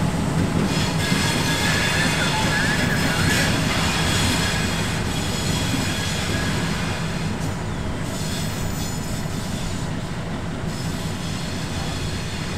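Freight train rolling on steel rails: a steady rumble with high, thin wheel squeal, strongest in the first few seconds and easing off toward the end.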